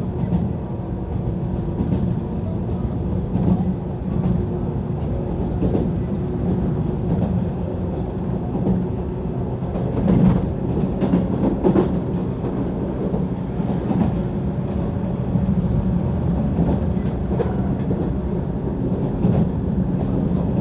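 Onboard running noise of a JR East 185 series electric train, heard inside the passenger car: a steady low rumble, with a few sharp clicks about halfway through and again later.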